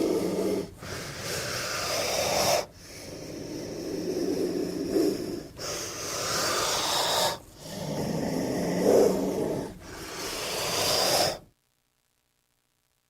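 King cobra hissing: a run of long, breathy hisses, each two to three seconds long and following one another with short breaks. The sound cuts off abruptly near the end.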